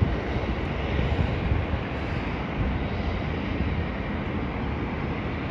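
Airport ambience: a steady, fluctuating low rumble of distant jet aircraft engines, with wind buffeting the microphone.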